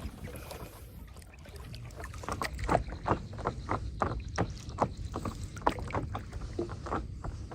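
Irregular splashes and knocks in water, a few a second, starting about two seconds in, over a low steady rumble.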